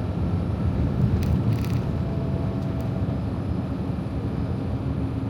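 Cab interior of a Freightliner Cascadia semi truck under way: steady engine drone and road rumble.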